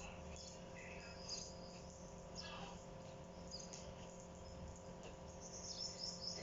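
Faint, scattered high bird chirps over a steady low hum.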